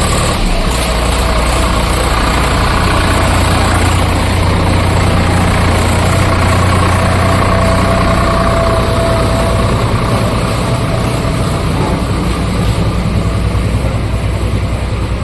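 Diesel tractor engine running steadily and loudly, with a slight pulsing in its loudness near the end.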